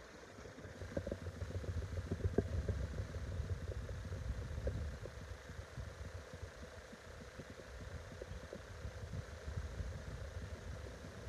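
Wind buffeting the microphone: an uneven low rumble that swells about a second in and eases after about five seconds.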